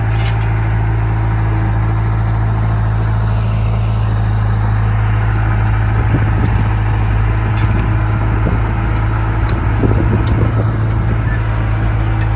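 Komatsu D31P bulldozer's diesel engine running steadily at a constant pitch, with a few short rattles around the middle and near the end.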